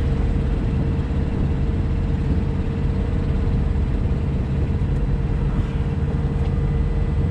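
Semi truck's diesel engine idling steadily with the hood open: an even low rumble with a faint steady hum above it.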